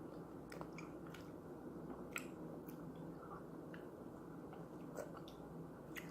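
Faint chewing of grapes: scattered small mouth clicks and bites over a low room hum.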